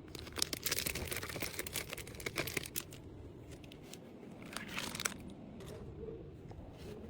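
Crinkly packaging being handled and crumpled, with a dense patch of crackling and clicking over the first three seconds and another short burst about five seconds in.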